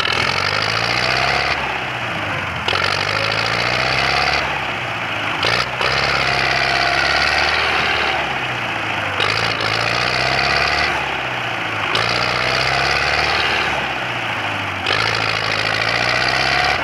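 Belarus tractor's diesel engine running hard, its pitch rising and falling. The sound breaks off and changes abruptly every couple of seconds.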